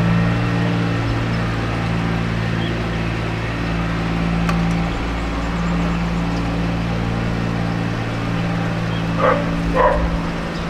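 An engine running steadily with an even drone. Two short dog barks come near the end.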